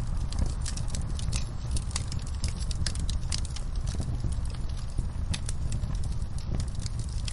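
Wood fire in a fireplace crackling: many sharp, irregular pops and snaps, several a second, over a steady low rumble of burning.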